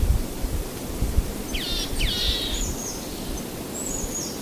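Outdoor ambience: a low rumbling hiss with several short, high bird calls, each falling steeply in pitch, bunched around the middle and once more near the end.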